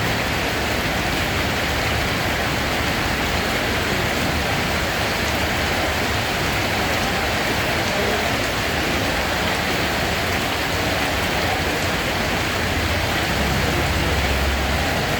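Steady rain falling: an even, unbroken hiss, with a low rumble underneath that swells a little near the end.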